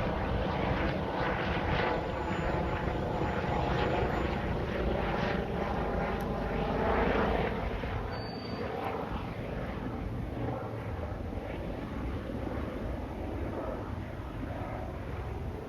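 Helicopter flying overhead, its rotor and engine noise loudest through the first half and then gradually fading as it moves away.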